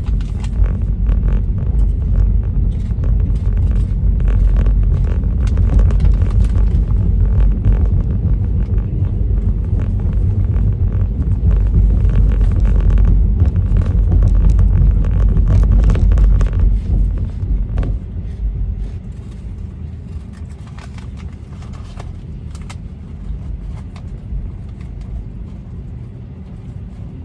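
Road noise inside a moving car's cabin: a steady low rumble that drops off markedly about two-thirds of the way through and stays quieter.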